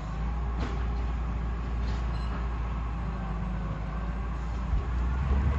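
Garbage truck engine running with a steady low rumble, with a couple of faint knocks in the first two seconds.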